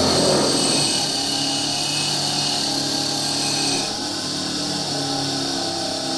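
A hand-held power tool running steadily, with a high whine; its tone changes about four seconds in.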